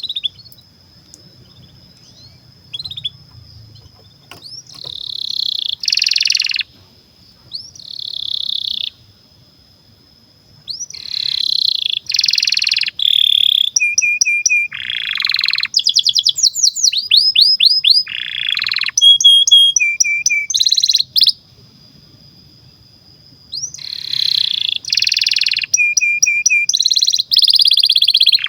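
Domestic canary singing long phrases of fast rolling trills and rising sweeps, breaking off twice for a couple of seconds. It is a full song of the kind played to teach young canaries to sing.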